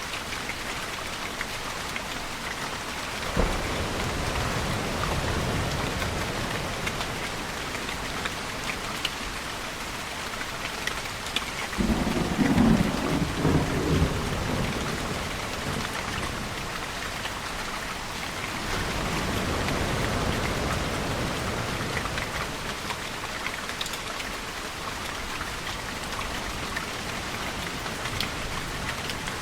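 Steady rain falling, with thunder: a sharp crack and rumble a few seconds in, a louder crackling roll near the middle, and a softer low rumble later.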